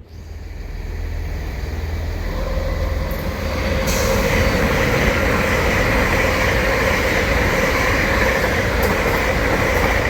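Diesel-hauled passenger train passing close by: a low rumble at first, then from about two and a half seconds in a steady, loud rush of wheels on rails.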